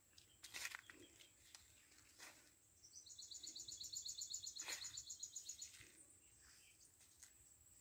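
A bird's high, rapid trill, about ten notes a second, starting about three seconds in and lasting nearly three seconds, over a faint steady high hiss. A few soft clicks and rustles come before and during it.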